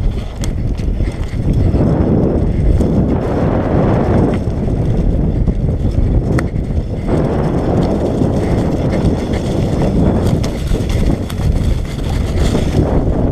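Carbon bicycle ridden over a rough forest dirt trail: constant tyre and drivetrain rumble with scattered sharp clicks and knocks as it rattles over bumps, under heavy wind buffeting on the microphone.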